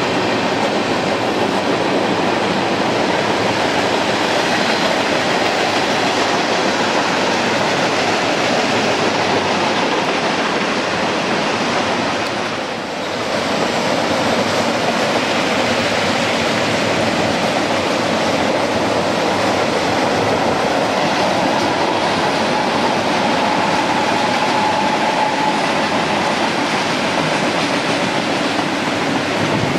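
Freight train cars rolling past on the rails, a steady even noise of wheels on track that dips briefly about halfway through.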